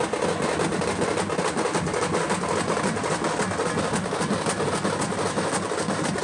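Tamate frame drums beaten hard in a fast, dense rhythm, the strokes running together into a continuous clatter.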